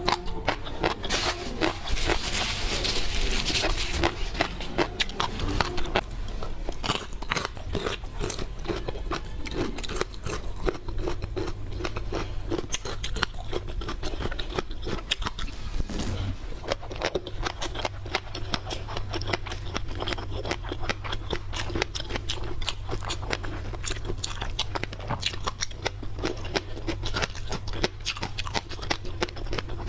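Close-miked eating of seafood: steady crunching and chewing with many rapid small clicks and crackles, and a rustling noise in the first few seconds.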